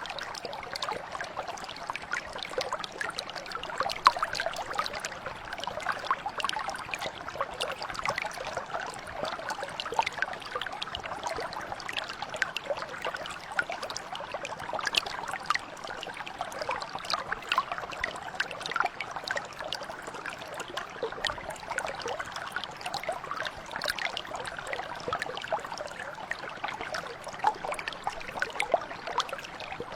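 A mountain brook flowing steadily, with a continuous babble of small splashes and trickles.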